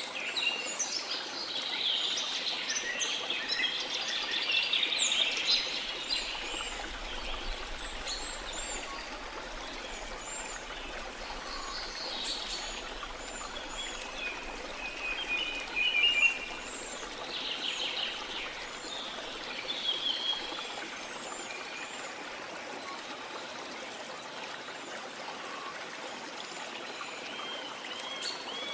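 Steady rush of waterfall water with rainforest birds singing and calling over it, the birdsong densest in the first few seconds and returning in scattered chirps and short trills.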